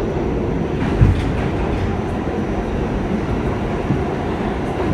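R46 subway car running at speed, heard from inside the car: a steady rumble of wheels on rail, with one sharp thump about a second in.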